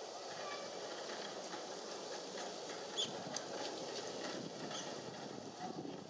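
Steady outdoor rumble, like distant traffic, with a few brief high chirps from small birds; the sharpest chirp comes about halfway through.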